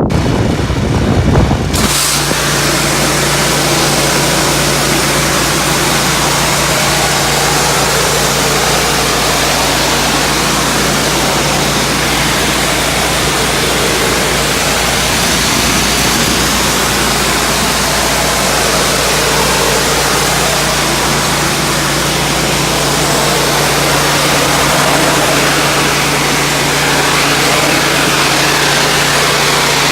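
Pressure washer running steadily: a constant motor hum under a loud, even hiss of high-pressure water spraying concrete, settling into its steady run about two seconds in.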